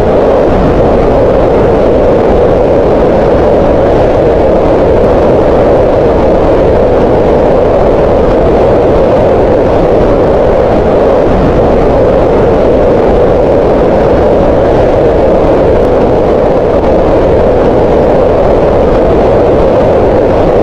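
Green noise: a loud, steady, even hiss, strongest in the low middle of the hearing range, with no change in it.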